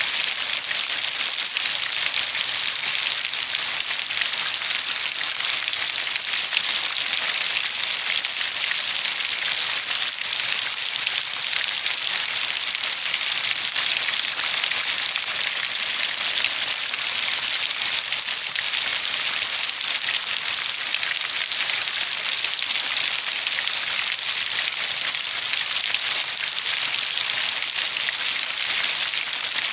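Steady heavy rain falling on a surface, a dense even hiss of many drops without pause or change.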